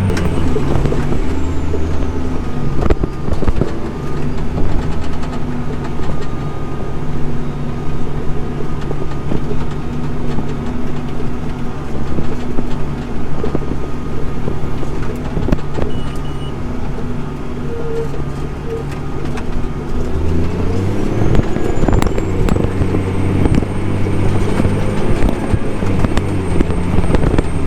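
Farm tractor's engine working under load pulling a tillage digger, running steadily with scattered clicks and knocks. Its pitch drops at the start and climbs back about 21 seconds in, together with a high whine.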